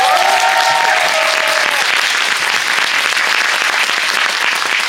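Audience and cast clapping loudly, with a few voices held or calling out over the first couple of seconds.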